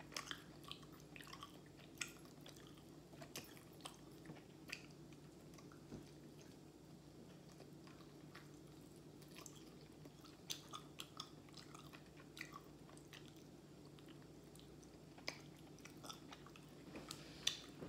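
Faint chewing and mouth noises from a person eating a crispy fried chicken wing: scattered sharp clicks and smacks at irregular intervals over a faint steady low hum.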